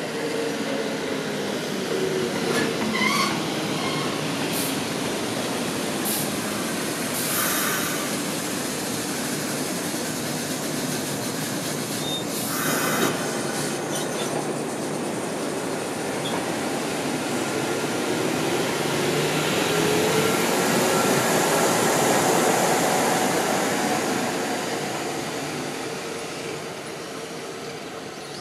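Kintetsu electric train arriving at a station platform, with wheel squeal and several short bursts of air hiss. It then pulls away with a rising motor whine, loudest as it gathers speed and fading near the end as it leaves.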